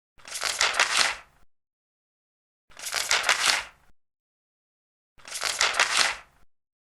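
Large paper pages being turned one at a time, three times, each turn a crisp rustle lasting about a second with dead silence between.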